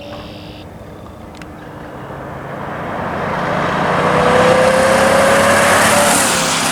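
A Corvette's small-block Chevy 350 V8 accelerating hard, getting steadily louder and rising slowly in pitch to a peak about four to six seconds in, then dropping off sharply near the end.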